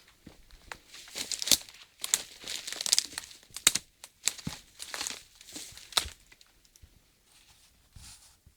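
Dry leaves and twigs crackling and rustling in dense irregular clusters, like movement through forest leaf litter and undergrowth. The crackling is busiest for about six seconds, then thins to a few faint rustles near the end.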